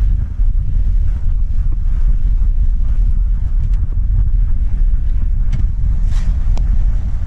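Steady low rumble of a car driving on wet, slushy roads, with a few faint light ticks scattered through it.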